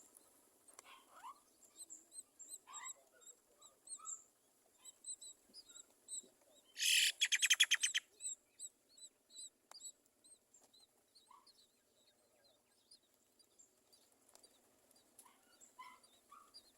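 Myna birds at a nest making many short chirps. About seven seconds in comes one loud, harsh call of about a second, made of rapid pulses.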